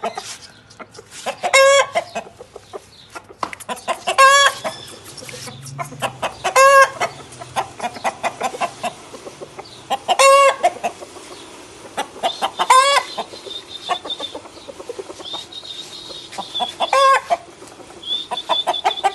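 Aseel chickens clucking, with six loud, short calls standing out about every two to four seconds.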